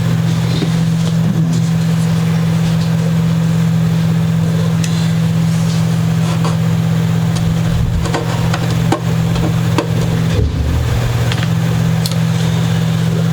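Steady low mechanical hum with a few even tones, with scattered light clicks and scrapes of hand work on a guitar's frets.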